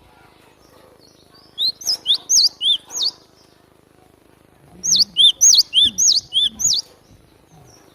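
Cinereous tit (glatik batu) singing: two bursts of quick, high, sharply sweeping whistled notes, about six to seven notes each, a second or so apart.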